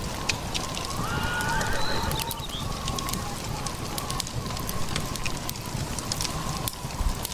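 Fire crackling over a low steady rumble, with a faint whining tone that rises briefly about a second in.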